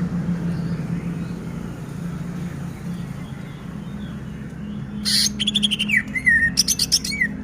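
A cucak ijo (green leafbird) sings a short phrase about five seconds in. It opens with a harsh burst, then falling whistles and a fast rattling chatter, its learned imitation of squirrel calls. A steady low hum runs underneath throughout.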